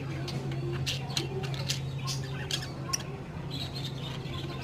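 Budgerigars giving short, scattered chirps and raspy squawks, over a steady low hum.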